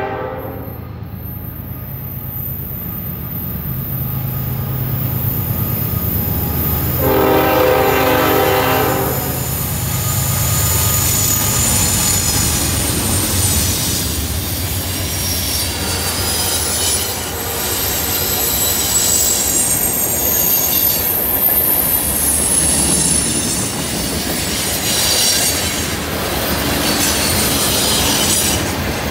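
A CN freight train led by a GE ES44DC diesel locomotive passing on a curve. Its horn sounds, with the tail of one blast at the very start and a second two-second blast about seven seconds in, over the low rumble of the locomotives. The long string of freight cars then rolls by with high-pitched wheel squeal on the curve and some clicking of the wheels over the rail joints.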